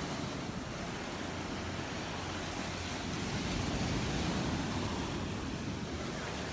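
Surf washing ashore on the beach, a steady wash of waves that swells a little about four seconds in.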